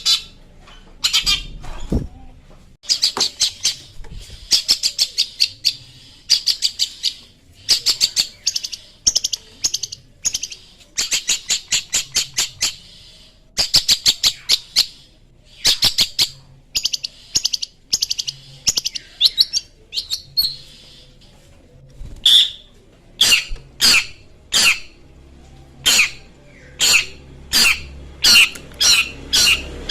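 Long-tailed shrike (cendet) singing in full voice: fast, harsh chattering runs of sharp high notes in phrases of a few seconds with short breaks, turning after about 22 seconds into a series of separate loud, sharp notes about one or two a second.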